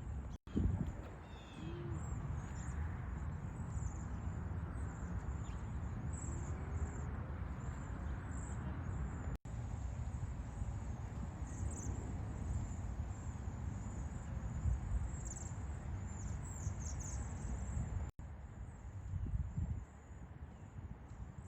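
Outdoor ambience: a steady high insect chirring over a constant low rumble, with a few faint bird calls early on. The sound cuts out briefly three times.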